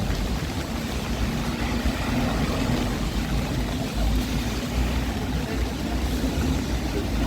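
Busy city street ambience: a steady rumble of road traffic with a faint hum running through it.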